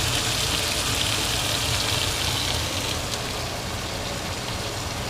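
Meat sizzling in a frying pan, a steady hiss over a low hum, easing off slightly about three seconds in.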